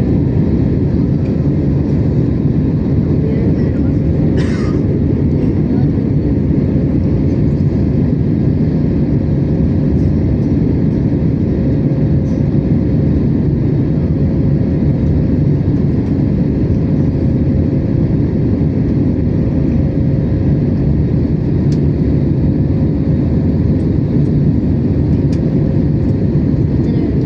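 Steady cabin noise of an Airbus A321neo in flight: a loud, even low drone from its Pratt & Whitney PW1100G geared turbofans and the airflow, with a faint steady hum above it. A brief click comes about four and a half seconds in.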